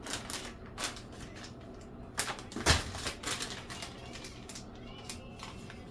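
Irregular clicks and taps of kitchen handling, with one louder knock near the middle.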